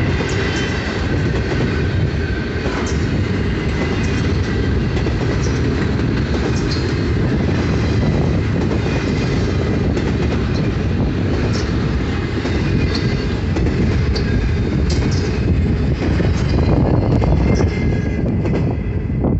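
Double-stack intermodal container cars of a freight train rolling past: a steady rumble of steel wheels on rail, with scattered sharp clicks and squeaks. Near the end the last car goes by and the higher sounds begin to fall away.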